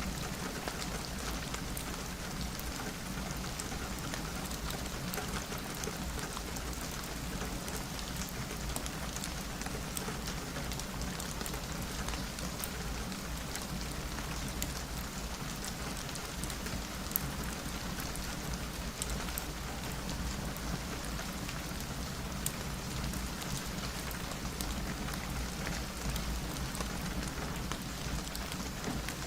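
Steady rain pattering on a window, with scattered small sharp ticks and one slightly louder tick about halfway through, over a steady low rumble.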